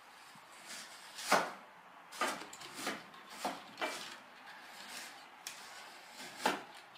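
A series of short knocks or bumps: five in quick, uneven succession, then one more near the end.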